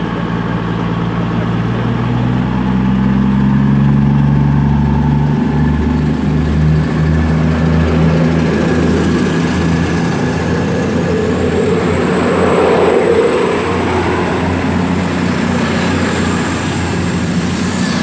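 Class 221 Super Voyager diesel multiple unit pulling away, its underfloor diesel engines revving up and rising in pitch over the first few seconds, then giving way to rolling rumble as it leaves. A thin high whine builds near the end.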